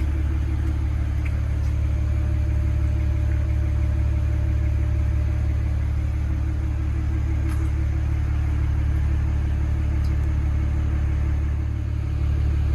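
Stock 2008 BMW 135i's twin-turbo 3.0-litre straight-six idling steadily, still warming up after a cold start.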